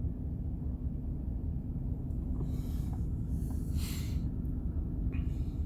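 GMC Savana van's engine idling with a steady low rumble and hum, heard inside the cab. Three short hissing noises come through about two and a half, four and five seconds in.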